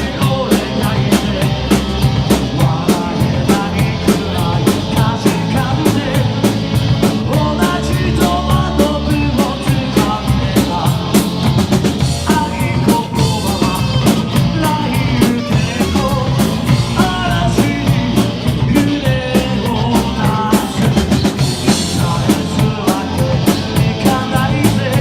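Rock band playing an instrumental passage of a punk-style rock song: a steady, evenly repeating drum-kit beat under electric guitars and bass.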